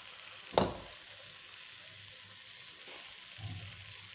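Khoya and sugar sizzling softly in a dry kadhai, with no ghee, as a wooden spatula stirs them. A sharp knock comes about half a second in, and a softer thump near the end.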